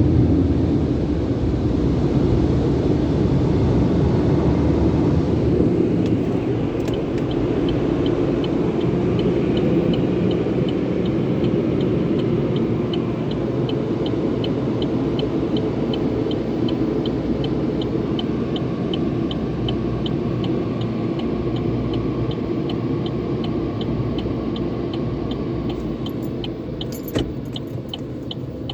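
Car wash tunnel equipment running with a steady, loud rushing rumble that slowly fades. From a few seconds in, a regular high ticking at a couple of ticks a second runs alongside it.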